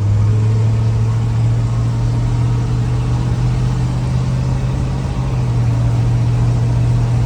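Project pickup truck's engine running at steady revs: a loud, steady low drone that holds one pitch.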